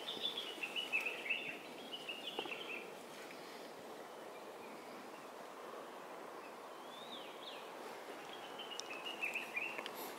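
A bird singing in quick runs of chirping notes at the start and again near the end, with a short sweeping call in between, over a steady background hiss.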